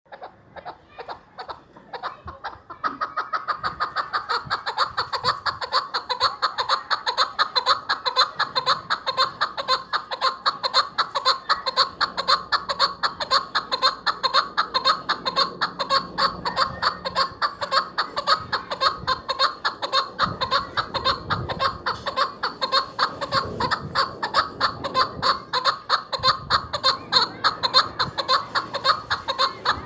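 Chukar partridge (chakor) calling: a long, rapid run of repeated chuk notes at an even pace, growing louder about three seconds in.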